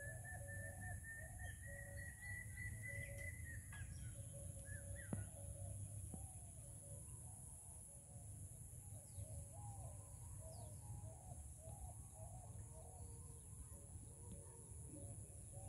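Birds calling and chirping in repeated short warbling phrases, with a thin whistle slowly rising in pitch for the first few seconds, over a steady high-pitched hiss.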